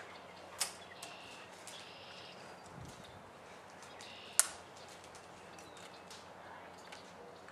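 Faint birdsong, short high chirps over quiet outdoor ambience. Two sharp clicks, the louder about four and a half seconds in, stand out above it.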